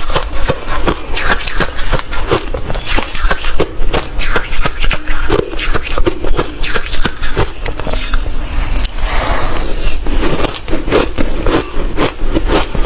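Close-miked chewing of hard refrozen crushed ice: a dense, irregular run of loud, crunchy cracks and crackles.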